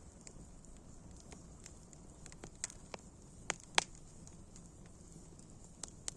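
Campfire crackling: irregular sharp pops and snaps over a low steady hiss of burning, with a loud pop a little under four seconds in.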